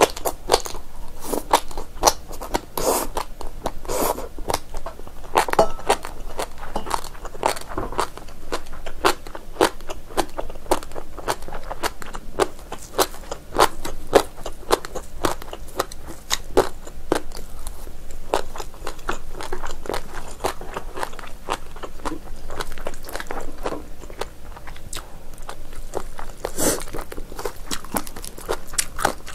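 Close-miked eating sounds: dense, irregular wet chewing, smacking and crunching of chewy braised beef trotter and noodles, with no pause.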